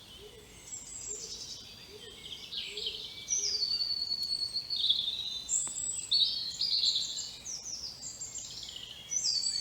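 Songbirds singing outdoors: a run of varied chirps, trills and whistled phrases, sparse at first and getting busier from about three seconds in.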